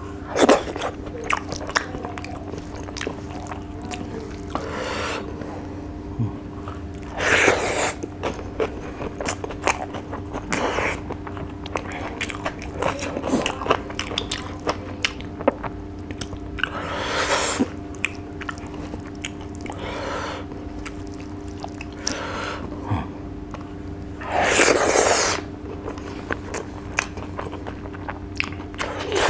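Close-miked mukbang eating: a man chewing and biting mouthfuls of rice and fish eaten by hand, with many wet mouth clicks and a few louder noisy bursts, over a steady low hum.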